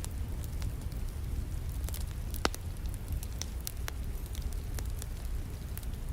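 Wood fire crackling, with irregular sharp pops and snaps, the loudest about two and a half seconds in, over a steady rumbling hiss of falling rain.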